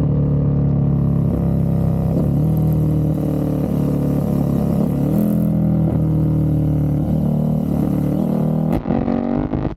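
KTM 1290 Super Duke R Evo's V-twin engine through a full titanium exhaust, running at fairly steady revs with small rises and dips in pitch. A brief break near the end is followed by rising revs.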